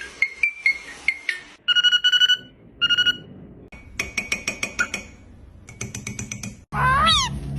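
Ringtone-like electronic trilling: short bursts of rapid pulsed beeps at a steady pitch, separated by quick tapping trills. Near the end it cuts suddenly to a loud wavering call that rises and falls, like a meow.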